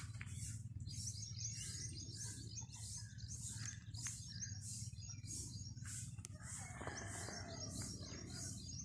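Birds chirping in a quick, even, repeating pattern of about two bursts a second, over a steady low hum, with a brief broader rustling noise about seven seconds in.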